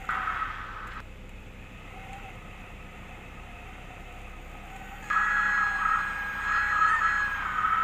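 Cockpit sound of a 1976 Cessna 172M during a touch-and-go, heard through the headset intercom. A short burst comes right at the start. About five seconds in, the sound gets abruptly louder and a steady high tone comes in and holds.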